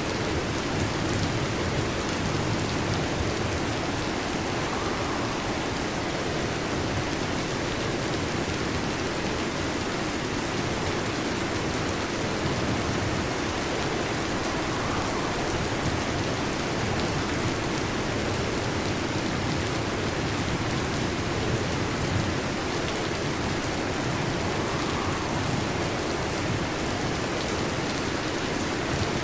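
Heavy rain falling steadily on a metal roof, an even hiss of drops with no thunder heard.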